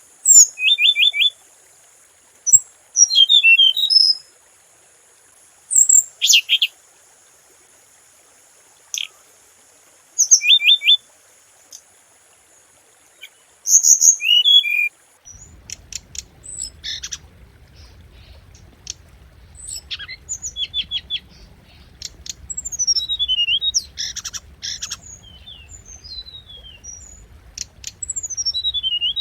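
Siberian rubythroat singing in short, loud phrases of quick chirps, rapid repeated notes and downward-sliding whistles: a lure song used to call in other rubythroats. A steady high hiss runs under the first half. About halfway it gives way to a low hum, and the phrases become faster and busier.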